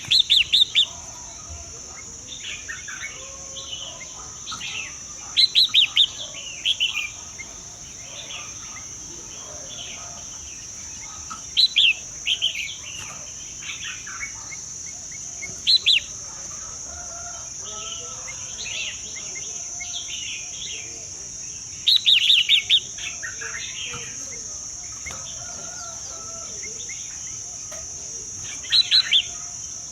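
Birds chirping: loud clusters of quick, high chirps come every four to six seconds, with softer calls between them, over a steady high-pitched hiss.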